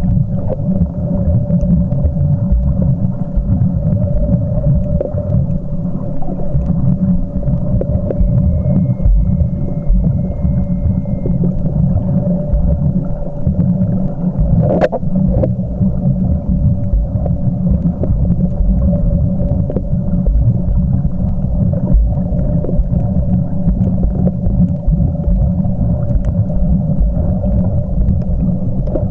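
Muffled underwater rumble from a camcorder recording beneath the sea surface while snorkelling. A steady hum runs under it, and there is one sharp click about halfway through.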